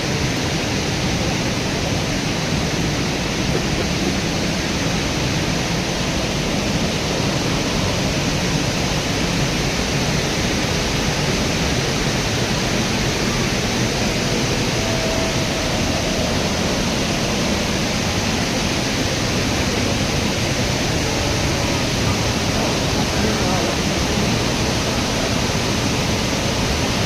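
Large waterfall: a loud, steady, even rush of falling water.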